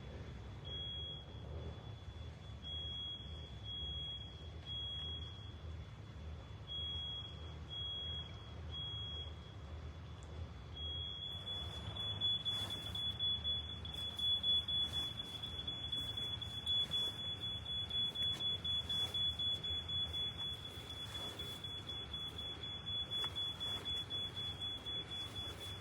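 Electronic alarm sounding a single high tone, first in short beeps with uneven gaps, then as one unbroken tone from about eleven seconds in, over a low rumble. Scattered clicks and rustles come in over it in the second half.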